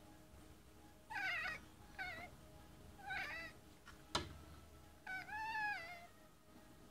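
Domestic cat chirping in four short calls with wavering pitch. A single sharp click comes about four seconds in.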